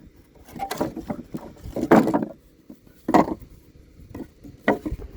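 Irregular knocks and clatter from rummaging through stored wooden boards, with four louder bumps about a second apart.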